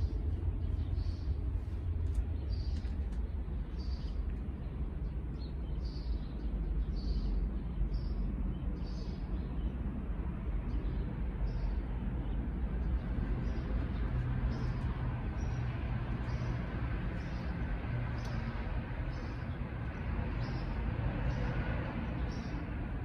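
A bird chirping over and over, one short high note about every two-thirds of a second, over a steady low rumble.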